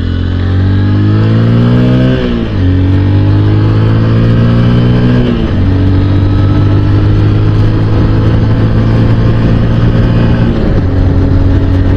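Honda XR150L's single-cylinder four-stroke engine accelerating, its pitch rising through first and second gear with a drop at each upshift about two and five seconds in. It then runs steadily at cruising speed, with one more small change in pitch near the end.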